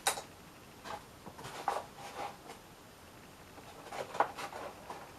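Rustling and light knocks of packaging and small plastic parts being handled, with one sharper click about four seconds in.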